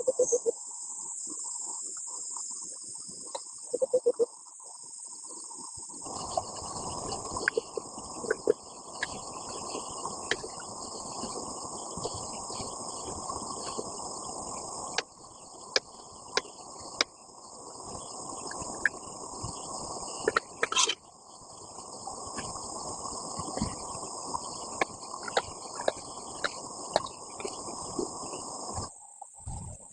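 Insect chorus: a steady high chirring with no pause. About six seconds in, a dense low hiss joins it, with scattered sharp clicks and taps.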